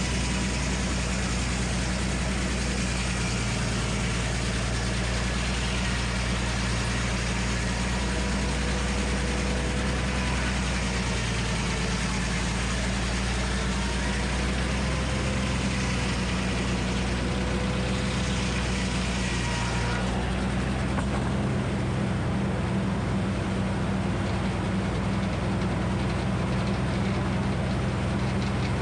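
Minneapolis Moline HEB 605 cubic inch engine running steadily as the power unit of a Frick circular sawmill. About two-thirds of the way through, the high hiss above it drops away and the engine runs on alone.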